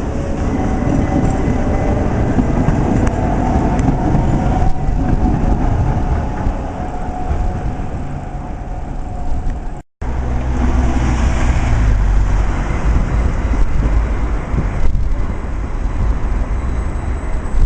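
Tram running on street track: steady rumble with a whining tone from the drive in the first part. About ten seconds in the sound breaks off for an instant and resumes with a heavier low rumble of a tram.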